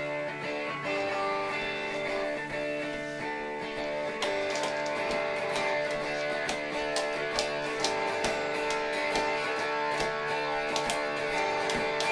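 Guitar music: held chords ringing steadily, with sharper plucked or strummed notes joining in about four seconds in.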